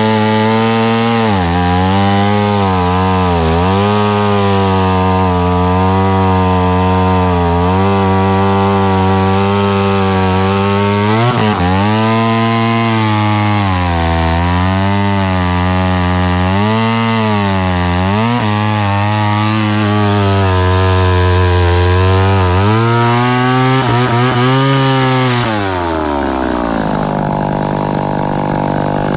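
Two-stroke chainsaw at full throttle cutting through wood, its pitch dipping and recovering again and again as the chain loads up in the cut. Near the end it drops back to idle.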